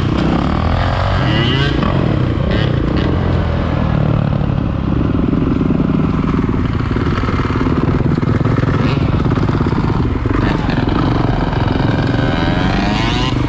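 Motorcycle engines running steadily, with rising revs near the end.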